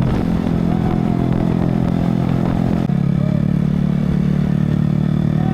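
Motorcycle engine running steadily under way, with a change in engine note about three seconds in.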